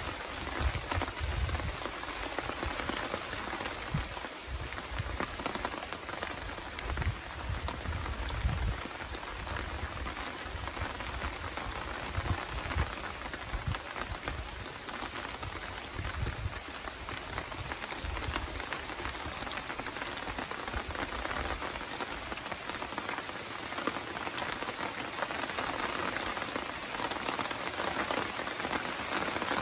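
Steady rain falling, recorded on a phone's microphone. A low rumble comes and goes through the first half.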